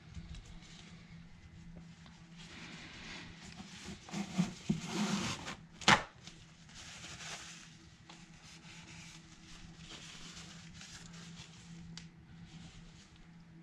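Soft handling and rubbing sounds as a resin bottle and printer vat are worked with gloved hands, louder for a moment about four seconds in, with one sharp knock about six seconds in, over a faint steady low hum.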